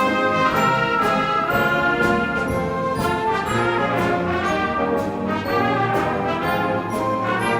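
High school wind band playing a Christmas medley, brass (trombones and trumpets) carrying the melody over full ensemble and regular percussion strikes.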